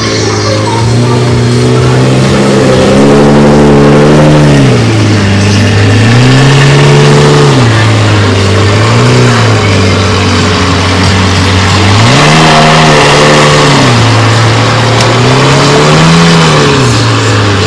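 Loud car engine being revved repeatedly, its note rising and falling in about five swells between steadier running.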